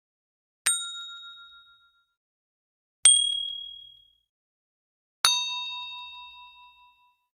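Three struck metallic dings, about two and a half seconds apart, each ringing clearly and fading out over a second or two; each strike is at a different pitch, the last one lower and the longest.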